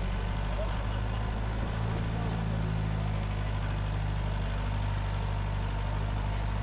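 Vehicle engine running steadily at low revs, a low even hum with a slight change in pitch about two seconds in.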